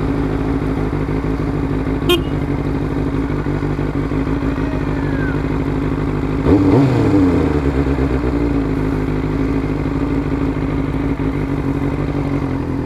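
Motorcycle engine running steadily while riding, its pitch dropping about six and a half seconds in as the revs fall. A short sharp click about two seconds in.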